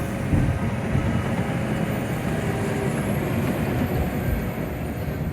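Freight train running past with a steady rumble.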